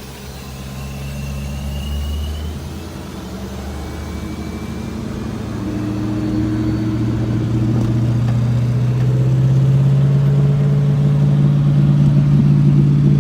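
The V8 of a supercharged Dodge Charger R/T runs steadily at low revs, growing louder over the first ten seconds, then holding.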